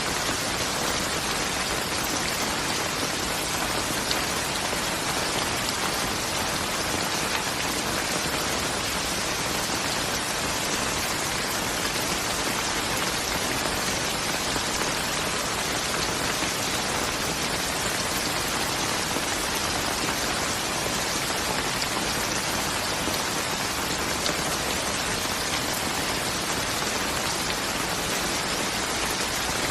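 Steady rain falling, an even hiss of drops on a surface that neither builds nor eases.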